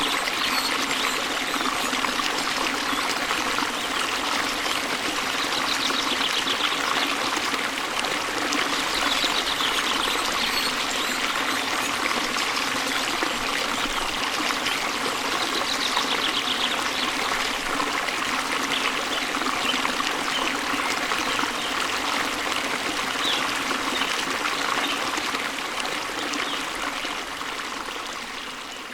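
Waterfall: a steady rush of falling water that fades down near the end.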